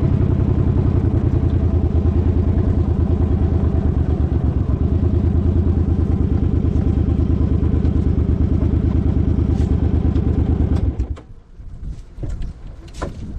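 Suzuki Boulevard M50's V-twin engine idling with a steady pulsing beat, then shut off suddenly about eleven seconds in. A few clicks and knocks follow against wind noise.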